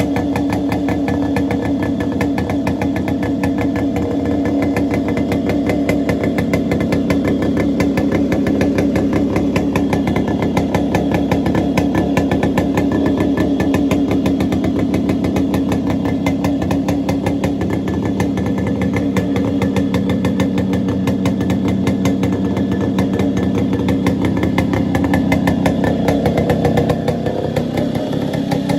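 1999 Yamaha RX100's two-stroke single-cylinder engine idling with no muffler: a loud, fast, steady train of open-exhaust pops. It eases a little quieter near the end.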